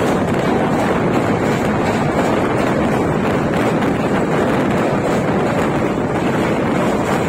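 Loud, steady rush of wind buffeting the microphone over the running noise of the Duronto Express travelling at high speed.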